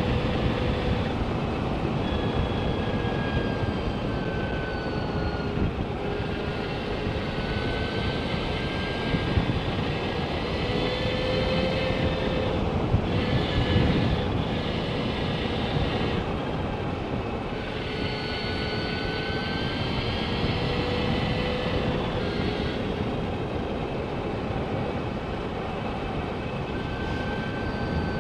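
Energica Experia electric motorcycle on the move: steady wind rush over the rider's microphone, with the electric motor's whine gliding up and down in pitch as the speed changes.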